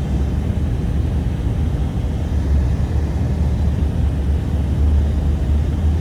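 Strong blizzard wind blowing, a loud, steady low rumble that starts abruptly.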